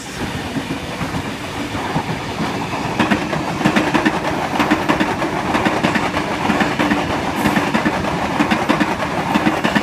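Double-deck electric trains, a V-set intercity and Tangara sets, passing close by with a steady rumble of wheels on rail. From about three seconds in, a quick run of wheel clacks over the rail joints.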